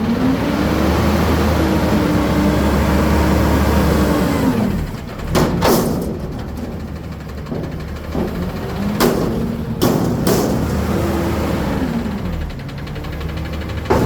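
Garbage truck engine revving up and holding for several seconds, then dropping back. Several sharp metallic bangs come about five to ten seconds in, and the engine revs up again near the end.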